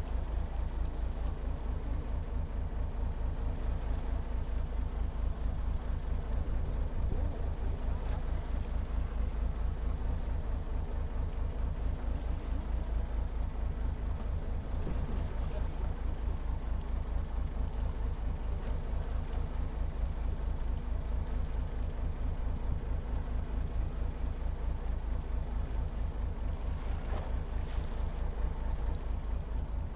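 Fishing boat's engine running steadily, a fast, even, low chugging throb.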